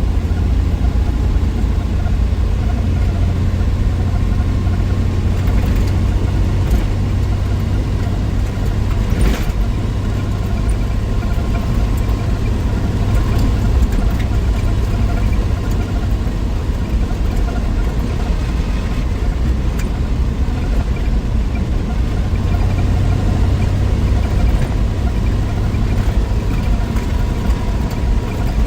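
1963 Willys Wagon's 230 Tornado overhead-cam straight-six engine running steadily on a drive, a loud low drone that holds an even level. A single click about nine seconds in.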